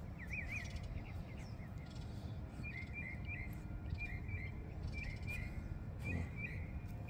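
A small bird chirping: a quick run of three wavering notes at the start, then short chirps in pairs and threes repeating through the rest, over a steady low outdoor rumble.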